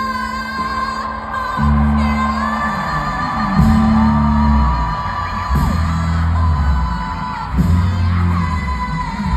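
Loud live hip-hop concert music: heavy bass notes held in blocks of about a second, under a sung vocal or synth line with long held notes and sliding pitches.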